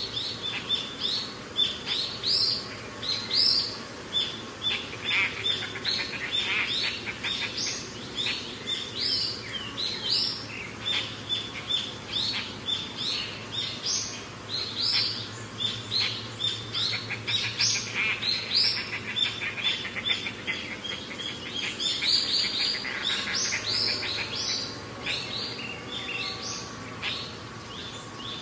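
Small birds chirping busily, with many short rising chirps several times a second, over a faint low hum.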